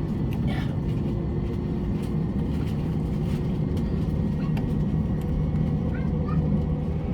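Airbus A321 jet engine starting up, heard from inside the cabin: a steady low rumble with a faint steady whine over it.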